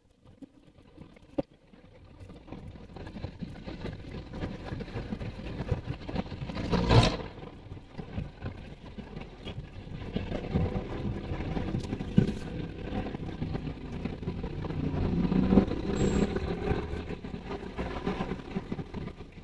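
Traffic and road noise from a moving car: a steady rumble that swells in from near quiet, with a louder vehicle passing about seven seconds in and a sharp knock about twelve seconds in.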